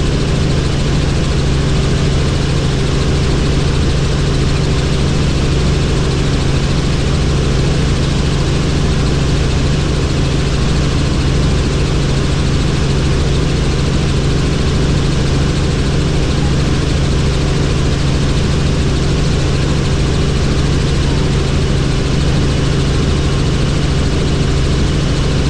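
Helicopter running steadily: a loud, unchanging drone of engine and rotor with a steady low hum.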